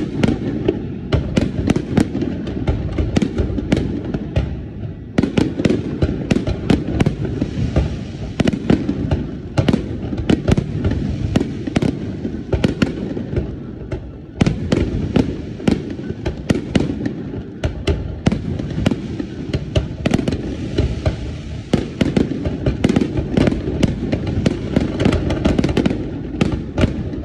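Fireworks display: a rapid, dense barrage of cracks and bangs from bursting shells over a continuous low rumble. The barrage thins briefly about five seconds in and again about fourteen seconds in, then builds back up.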